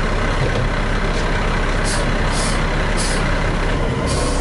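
Heavy diesel engines of a dump truck and a bulldozer running steadily at a job site, with four short bursts of air hiss from about two seconds in to the end.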